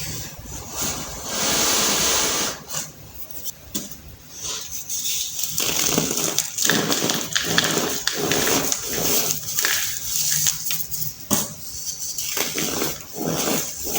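Blocks of baking soda being crushed and crumbled, giving a run of crunchy, crackling bursts one after another.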